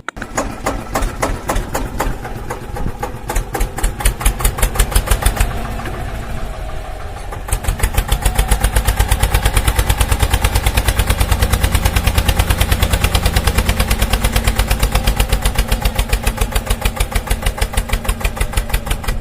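A small engine running with a rapid, even chugging pulse that falters and weakens about six seconds in, then picks up again and runs steadily at about seven beats a second.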